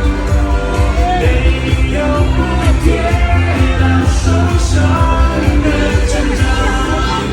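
Upbeat parade song with singing over a strong, steady beat, played loud through the parade floats' sound system.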